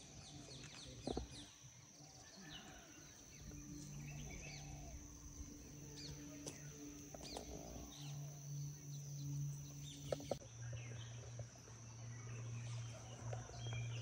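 Birds chirping and calling in short rising and falling notes, over a steady high-pitched tone and a low hum that grows louder about ten seconds in.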